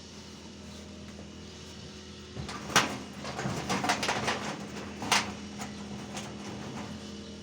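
Construction work: a stretch of rattling clatter with two sharp knocks, as tools or building materials are handled, over a steady low hum.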